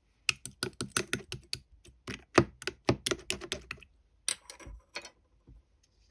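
A quick run of sharp clicks and taps, about five a second, for nearly four seconds, then a few scattered clicks toward the end.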